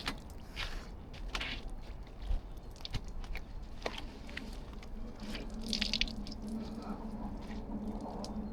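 Irregular wet crunching and squelching of melting snow and slushy ice underfoot, with a steady low hum joining about five seconds in.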